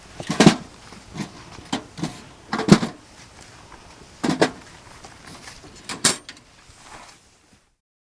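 A series of irregular knocks and thuds, about seven in all, the loudest about half a second and nearly three seconds in, cutting off to silence shortly before the end.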